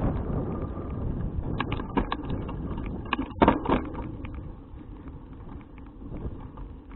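Wind and road rumble on a bicycle-mounted action camera while riding, with a cluster of rattling knocks and clicks in the middle, the loudest about three and a half seconds in. The rumble dies down over the second half.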